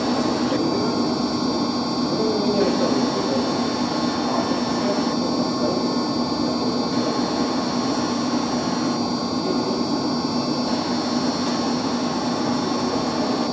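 Heating circulation pumps' electric motors running: a steady machinery hum with several constant high whines over it.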